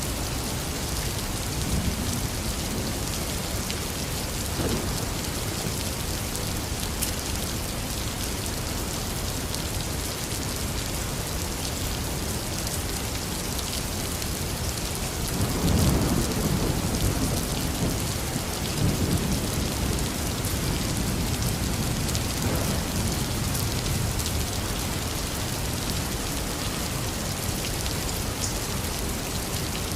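Heavy rain falling steadily, with a roll of thunder rumbling about halfway through and fading over several seconds.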